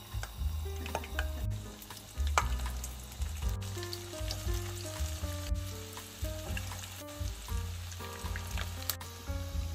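Shredded potato balls sizzling and popping as they are dropped into hot oil in a frying pan, over background music with a melody and steady bass.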